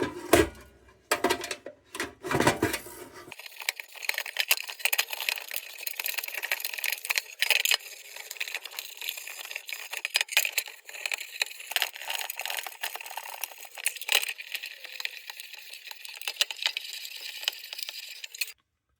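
Superfine steel wool scrubbing the tin body of a 1945 Dietz No. 2 Blizzard lantern: a continuous dry, scratchy rasp with many small clicks and knocks, stopping shortly before the end.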